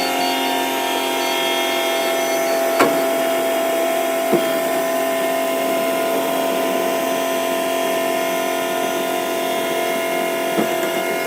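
Hydraulic system of a DOLL A380 catering truck whining steadily as it raises the catering box, with a few short knocks from the lifting structure.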